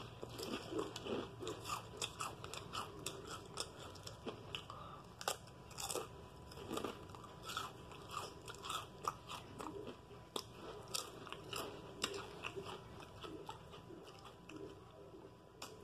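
A person chewing a mouthful of food close to the microphone: frequent sharp crunchy clicks and wet mouth sounds.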